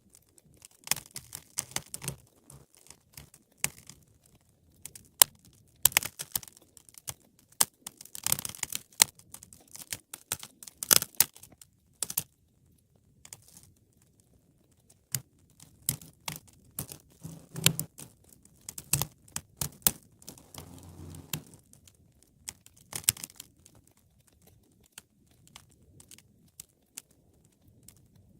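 Wood fire crackling, with irregular sharp pops and snaps that come in dense clusters and thin out for a few seconds midway.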